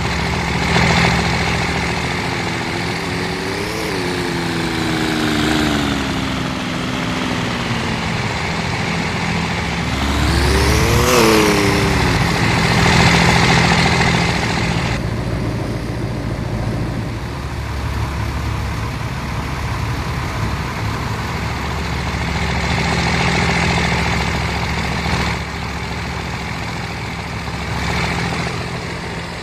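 Truck engines running, with two revs whose pitch climbs and then falls away: a slower one about four seconds in and a quicker, louder one about eleven seconds in.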